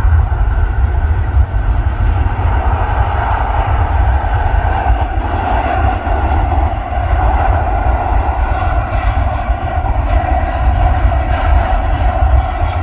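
Airbus A330 jet airliner's engines at takeoff power, a steady loud rumble with a droning hum over it.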